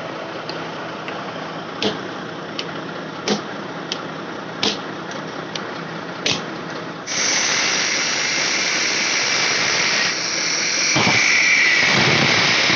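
A series of sharp metallic-sounding taps, roughly one every 0.7 seconds, followed about seven seconds in by a loud, steady hiss that continues to the end.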